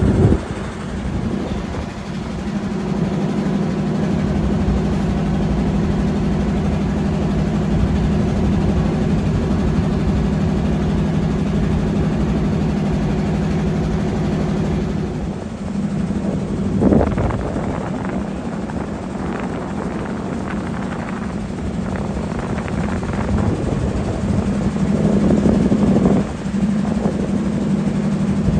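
Motor of a river ferry boat running steadily with a constant droning hum. About halfway through, the note shifts and other irregular sounds come in over it.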